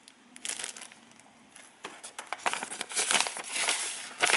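Plastic packaging crinkling as it is handled, in short spells at first and denser and louder over the last two seconds.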